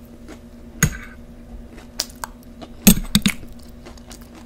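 Close-miked eating of nachos: several sharp crunches of tortilla chips being chewed, the loudest cluster about three seconds in, over a steady low hum.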